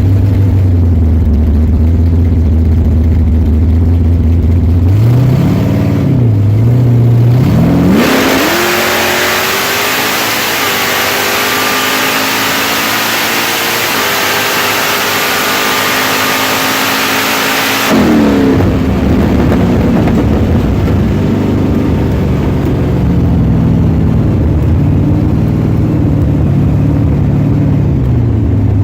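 Supercharged 540 cubic-inch big-block Chevrolet V8 with an 8-71 BDS blower and dual 850 carburettors, heard from inside the 1971 Nova. It idles, blips twice, then runs at full throttle for about ten seconds with its pitch climbing, cuts off suddenly and drops back to a wavering low-speed note.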